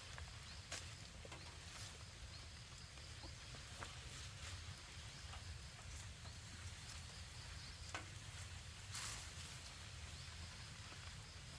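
Grass being cut by hand with a sickle: faint, irregular snapping of stems, with a short rustle about nine seconds in, over a low steady rumble.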